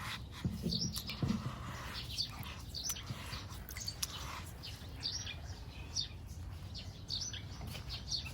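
Small birds chirping in short, high, falling calls, repeated every second or so over a low steady rumble.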